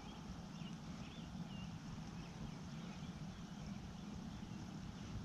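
Lakeside outdoor ambience: a steady low rumble with a few faint bird chirps in the first second and a half.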